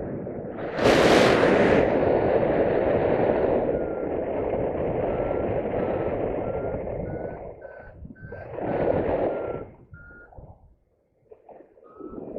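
Paragliding variometer beeping in short tones that drift up and down in pitch, signalling lift, over heavy wind rush on the microphone, with a loud gust about a second in.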